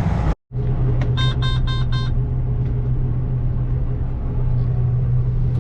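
Combine running with a steady low drone, heard from inside the cab. About a second in, four short electronic beeps sound in quick succession.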